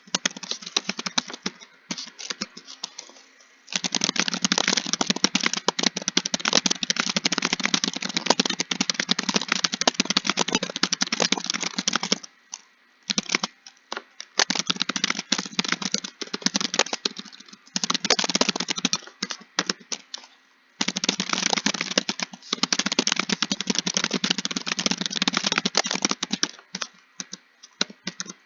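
Typing on a computer keyboard: long runs of rapid keystrokes broken by short pauses, with a few slower, sparser stretches between the runs.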